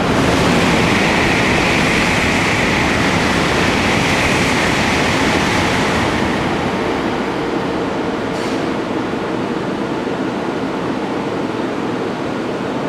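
Shinkansen bullet train at a station platform: a loud, steady rumble and hiss of the train's running noise, with a high whine that fades away over the first half while the overall sound slowly eases.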